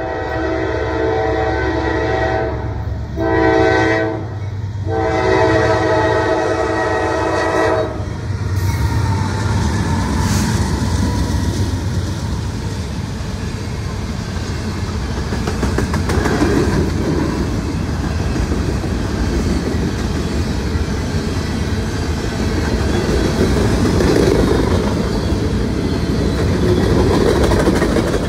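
Freight train locomotive horn sounding a long, a short and a long blast over the first eight seconds as it nears a grade crossing. Then the rumble and wheel clatter of covered hopper cars rolling past.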